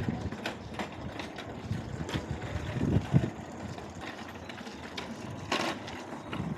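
Wind buffeting the microphone during a fat e-bike ride, a gusty low rumble with scattered clicks and knocks from the ride; one louder knock comes about five and a half seconds in.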